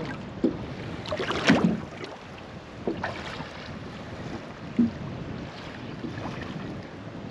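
Wind and water noise around a small fishing boat drifting on a lake, with a few knocks in the boat; the loudest cluster of knocks comes about a second and a half in.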